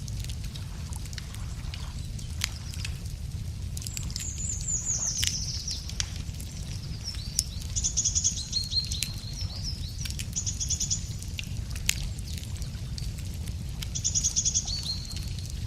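Wood fire crackling with scattered sharp pops over a steady low rumble, while a songbird sings about four short phrases, each a fast high trill dropping to a lower note.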